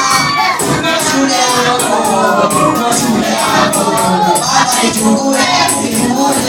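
A group of people singing together, with a steady shaken-percussion beat of about three strokes a second.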